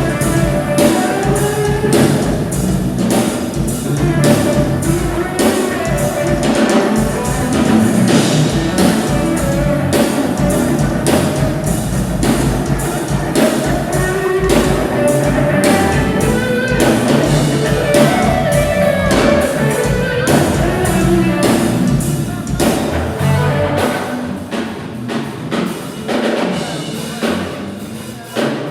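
Drum kit played non-stop in a fast, dense pattern of strikes and fills, with pitched instruments playing along. Near the end the deep bass drops away and the playing grows a little quieter.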